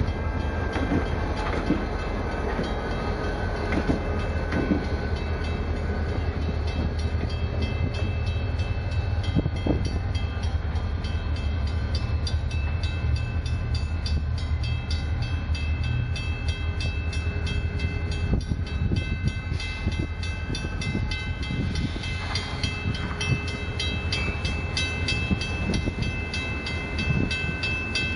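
Low rumble of a slow freight train moving along the rails behind an EMD GP40 diesel locomotive, easing a little in the second half. Over it a grade-crossing warning bell rings steadily and evenly.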